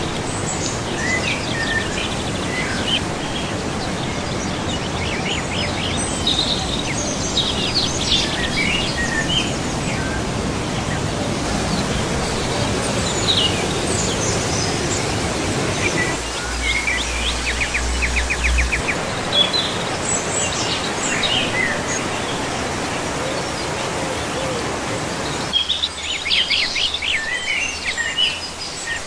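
Small songbirds chirping and trilling over a steady outdoor background noise. The background changes abruptly several times.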